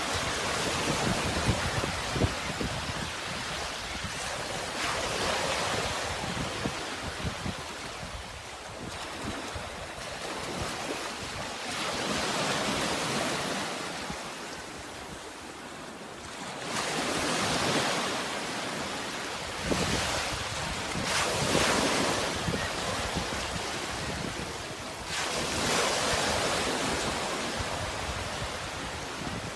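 Sea waves washing onto a shore, each wave swelling up into a hissing surge and fading away again every few seconds.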